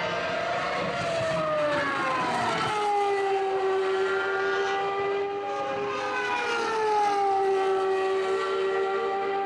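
Ferrari Formula 1 car engine running at high revs: its pitch slides down about two seconds in and holds steady, rises again past the middle, then slides down and holds steady once more.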